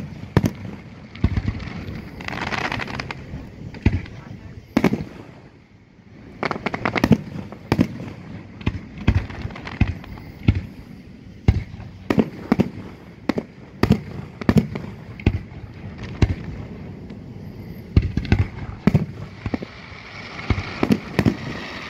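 Aerial firework shells exploding: a long run of sharp bangs, many in quick clusters, with a short lull about six seconds in.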